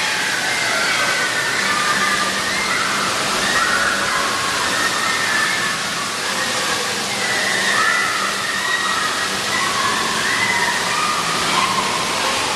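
Steady rush of falling and splashing water from water park fountains and slides, with faint distant voices shouting over it.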